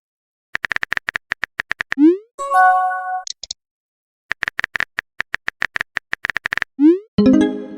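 Phone keyboard typing sound effects: two quick runs of taps, each followed by a short rising swoosh and a bright chime as a text message is sent, the second chime near the end.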